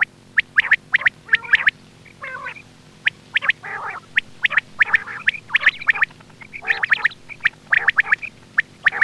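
Quail calling in a rapid series of short, sharp chirps, several a second, with a few rougher, buzzier notes among them, over a low steady hum.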